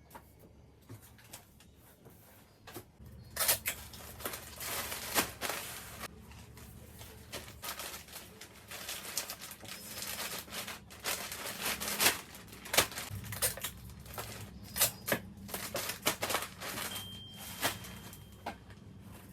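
Irregular clicks, taps and short rustling bursts from objects being handled, starting about three seconds in, over a faint low steady hum.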